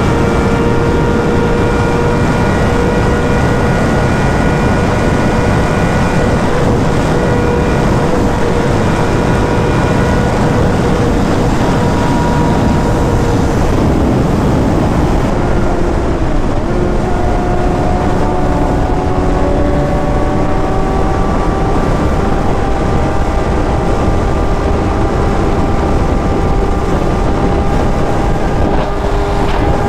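Sportbike engine running at speed under heavy wind noise; its note sags slowly, breaks about halfway through, then comes back lower and climbs steadily.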